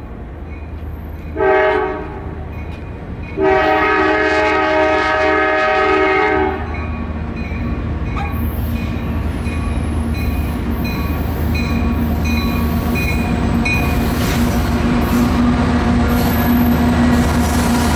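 Nathan K5LA five-chime air horn on a Norfolk Southern SD40E locomotive sounding a short toot and then a long blast. After the blast ends, the passing diesel locomotives take over: a steady engine drone with rail and wheel noise that grows louder.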